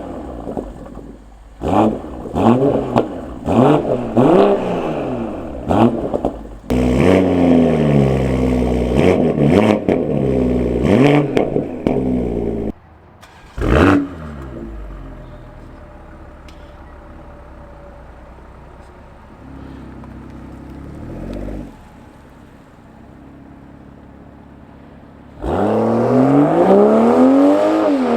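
BMW M340i's turbocharged inline-six through an AWE Touring aftermarket exhaust: several quick revs, then a hard acceleration that climbs in pitch through a few gear changes, and one more sharp rev. It then runs quieter and steadier for about ten seconds before another hard acceleration near the end.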